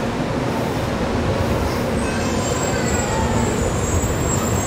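Shinkansen Class 923 'Doctor Yellow' inspection train moving along a station platform: a steady rumble, with a thin high whine coming in about two seconds in.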